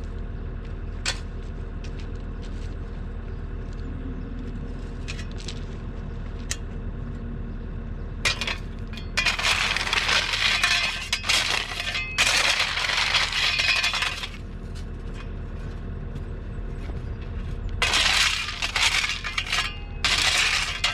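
Heavy-equipment engine running steadily while the bucket grades dirt, with two long stretches of loud scraping and crunching of soil and stones against the bucket, plus scattered clicks and knocks.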